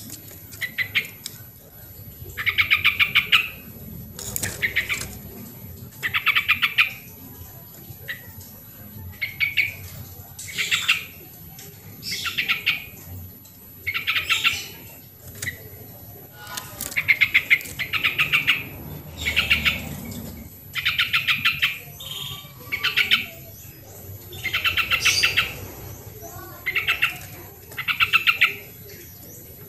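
Yellow-vented bulbul (trucukan) singing: short bubbly, chattering phrases, each under a second long, repeated every second or two.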